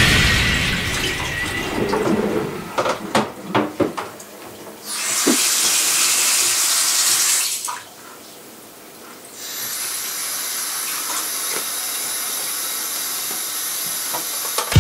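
Kitchen sink tap running into the sink: it comes on about five seconds in, stops for a moment near the middle, then runs steadily again to the end. Before that, a few seconds of knocks and clatter from things being handled at the sink.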